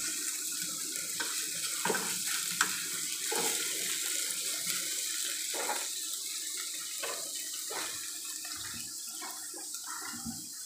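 Salmon pieces frying in olive oil in a nonstick pan: a steady sizzling hiss, with scattered scrapes and taps from a wooden spatula stirring them.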